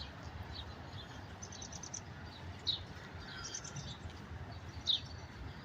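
Birds chirping: short high chirps and a quick run of notes about one and a half seconds in, with two louder chirps, one near the middle and one near the end, over a low background rumble.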